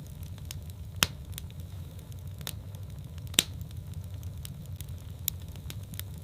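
Wood fire burning in a fireplace: a steady low rumble of the flames with scattered sharp crackles and pops, two loud pops about a second and three and a half seconds in.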